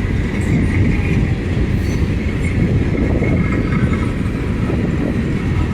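CSX freight train's cars rolling past, a steady rumble of steel wheels on rail with a faint high squeal over it.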